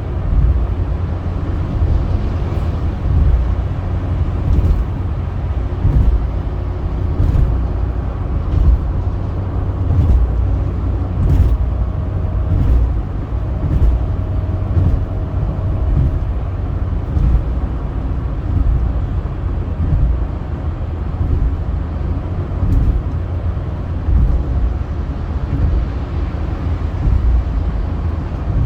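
A car driving at speed on a highway: a steady low rumble of road and wind noise, with faint ticks about every second or so.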